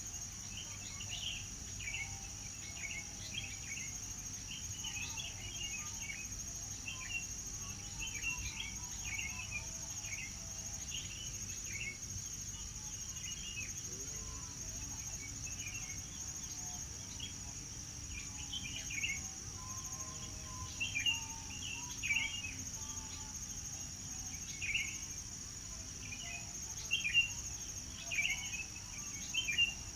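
Birdsong: many short chirps and calls repeating throughout, over a steady high-pitched insect drone like crickets. A few calls stand out louder in the second half.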